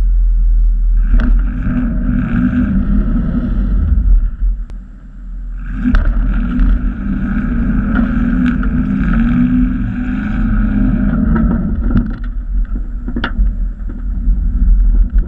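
Pickup truck engine revving hard while the truck is stuck in snow and trying to pull free, letting off briefly about five seconds in before revving up again.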